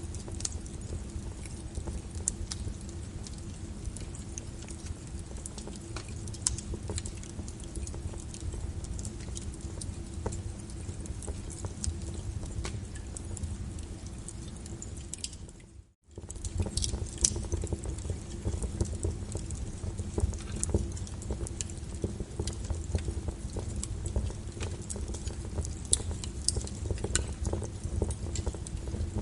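Wood fire crackling and popping, with many sharp irregular snaps over a steady low rumble of the flames. The sound briefly fades out and straight back in just past halfway.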